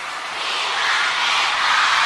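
A rushing noise with no clear tones, like a whoosh or surf, swelling up about half a second in and then holding steady.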